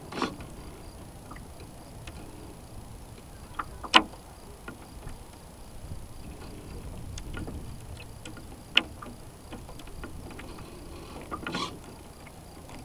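Water sloshing and wind rumbling around the hull of a radio-controlled model sailboat, heard from on board. A few sharp clicks or knocks cut through, the loudest about four seconds in and another near nine seconds.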